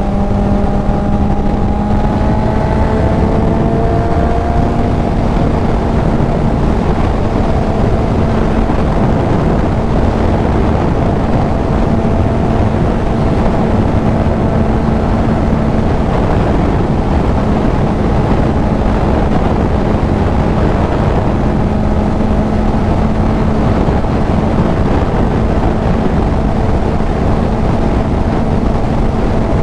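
Kawasaki Z900 inline-four with a CS Racing full exhaust, cruising at a steady engine speed; the note rises a little over the first few seconds, then holds. Heavy wind rush on the helmet microphone runs under it.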